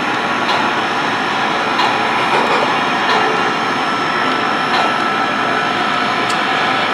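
Onboard sound system of an O-scale three-rail model steam locomotive standing at idle: a steady hiss with the simulated air compressor working, and a few faint irregular ticks.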